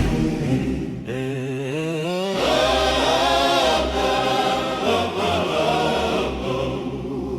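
Wordless sung intro of a Christian worship song. A single voice rises about a second in, then layered choir-like voices join over a low bass.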